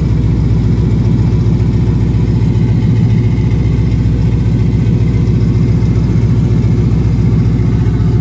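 Newly turbocharged car engine idling steadily on its first startup, a loud, even low rumble.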